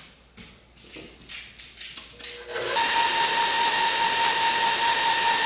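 Light scraping and tapping, then a KitchenAid stand mixer switched on about two and a half seconds in, its motor running with a steady high whine while it creams butter and sugar.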